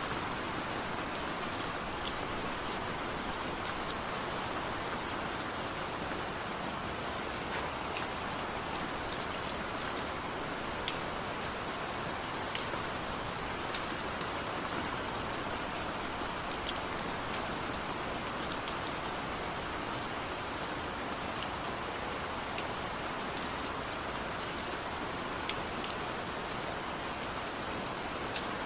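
Steady rain falling, with many sharp individual drops and drips ticking irregularly through it.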